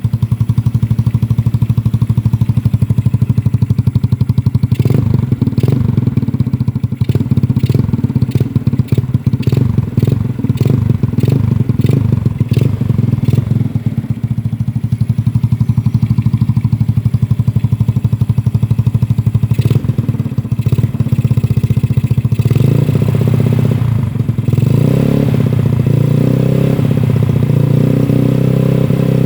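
Yamaha Mio Smile scooter's single-cylinder four-stroke engine running through an aftermarket Black Devil racing exhaust with a 38 mm inlet, idling with a pulsing exhaust note. There is a stretch of sharp pops and clatter in the middle, and near the end the throttle is opened and the revs are held higher.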